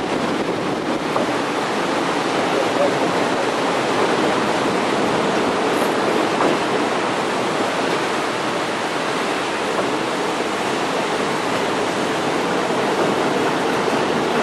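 Steady rushing noise of a passenger train rolling along the track, heard from aboard, with a faint steady hum underneath.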